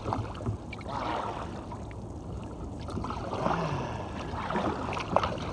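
Kayak paddle splashing in the water in irregular strokes, with dripping and small knocks against the hull.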